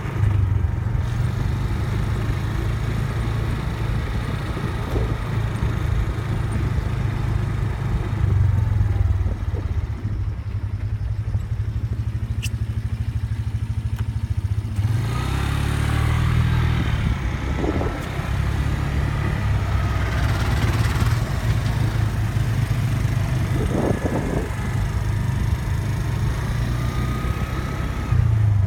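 Typhoon-force wind gusting and buffeting the microphone as a heavy, uneven rumble, with faint whistling in the second half.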